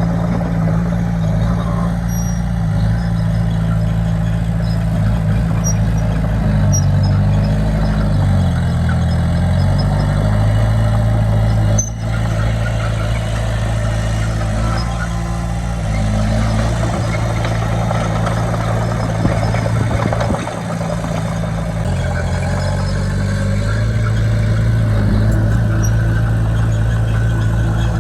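Heavy diesel engine of earthmoving machinery running hard, its pitch rising and falling several times as the load and revs change.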